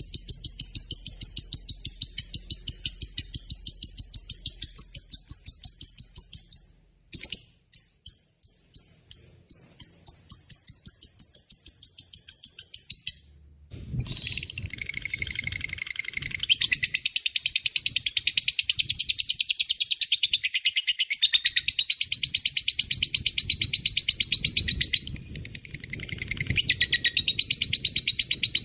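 Lovebird giving its long rapid chattering song (ngekek panjang): fast, evenly repeated shrill notes. The run breaks off briefly about a quarter of the way in and again near halfway, then picks up denser and louder.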